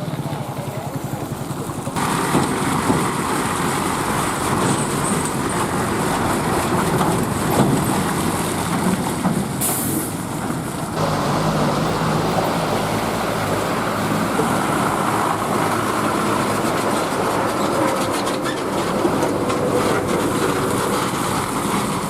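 Heavy loaded trucks running on rough roads: continuous engine and road noise with a low rumble. The sound changes abruptly twice, about 2 and 11 seconds in.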